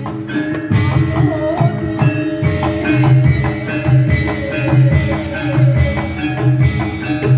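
Traditional Javanese ensemble music for a reog and jaran kepang performance: heavy drum strokes repeating under held metallic tones and a wavering melody line.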